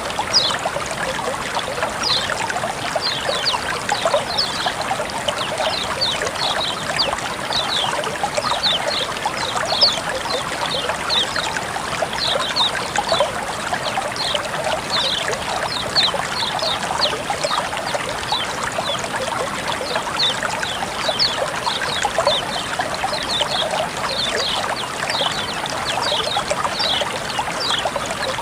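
Running water trickling and splashing steadily, with a constant stream of short high-pitched plinks several times a second.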